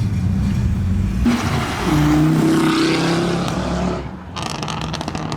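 Car engines running in slow-moving traffic, one stepping up in pitch about two seconds in as it revs and holds. The sound changes abruptly about a second in and again about four seconds in, ending in a crackly, noisy stretch.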